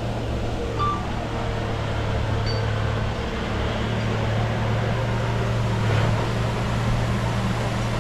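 Diesel engine of heavy earthmoving machinery running steadily, a constant low drone.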